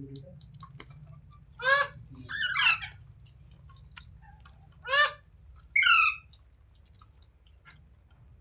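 Ringneck parrot giving four harsh squawks in two pairs: a short one and a longer falling one about two seconds in, then a short one and a falling one around five to six seconds in.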